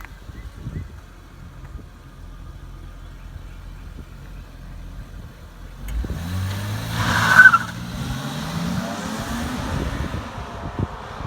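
Car engine running low and steady, then revving hard as the car accelerates, with a short squeal at the loudest point, which sounds like a tyre chirp. The engine settles to a steady pull near the end.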